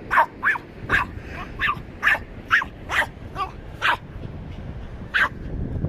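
A dog barking excitedly in quick short barks, about ten in the first four seconds, then a pause and a single bark near the end.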